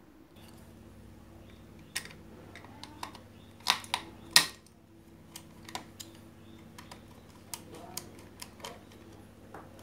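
Irregular clicks and knocks of tools and small parts being handled as a sewing machine's power switch is taken apart, a few louder knocks near the middle, over a steady low hum.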